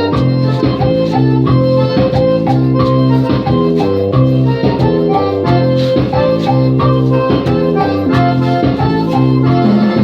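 Electronic keyboard playing an organ-sounding instrumental passage over a steady programmed drum beat.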